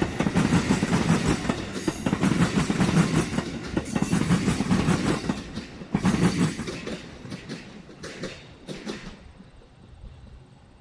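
A passing train's cars rolling by, wheels clicking over the rail joints with a steady rumble; the clicks thin out to a few spaced ones as the last car goes by, and the sound fades away about nine seconds in.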